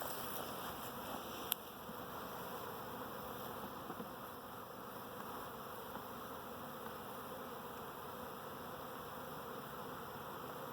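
Honeybee swarm buzzing steadily, a mass of loose bees in the air just after the swarm was shaken into a hive box. A single sharp click about a second and a half in.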